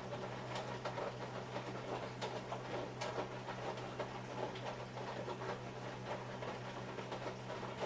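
Hotpoint washing machine running a wash cycle: a steady motor hum under irregular clicks and knocks as the load tumbles in the drum.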